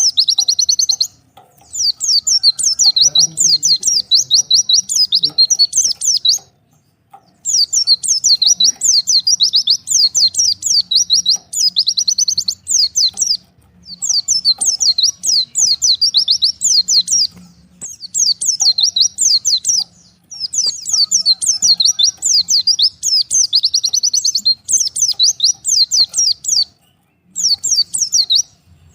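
White-eye (pleci) singing: long runs of fast, high twittering chirps, repeated in phrases a few seconds long with brief pauses between them.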